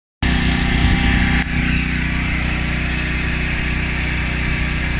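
Steady motor hum with a hiss over it; the hiss eases about a second and a half in.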